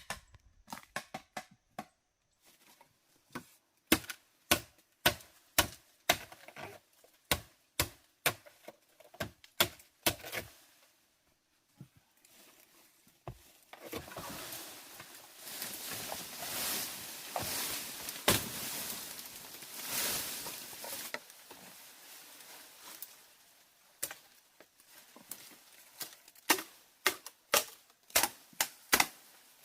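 Irregular sharp knocks and taps, several a second, with a stretch of steady hissing noise in the middle.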